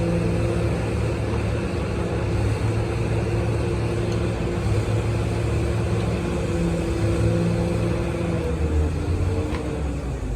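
Rebuilt Komatsu six-cylinder diesel engine running steadily, with a low, even drone.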